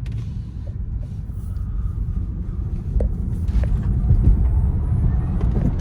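Low road and tyre rumble inside the cabin of a Tesla Model S Plaid on the move, with no engine note, growing louder from about a second in.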